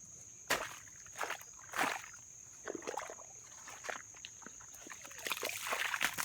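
Irregular squelches and sloshes in wet, sticky mud, coming closer together near the end. Crickets chirp steadily underneath.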